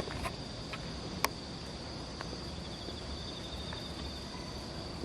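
Crickets chirring steadily in the night, a constant high trill with a faint pulse. A single sharp click about a second in.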